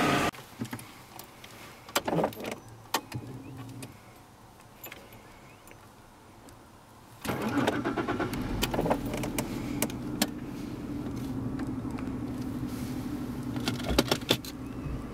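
A few sharp clicks over a quiet background, then about seven seconds in the 1988 Jaguar XJ40's six-cylinder engine comes in suddenly and runs steadily at idle on a cold start.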